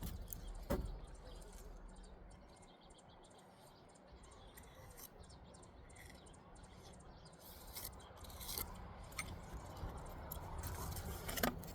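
Occasional light scrapes and metallic clinks of a steel trowel working mortar against brick, short and sparse, with quiet stretches between; a few come about a second in and a cluster comes after the middle.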